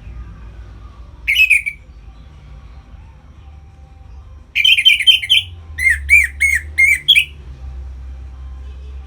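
Orange-headed thrush (anis merah) singing in loud phrases: a short phrase about a second in, then a quick run of notes around the middle, followed straight away by about five arched, repeated notes. A faint low hum runs underneath.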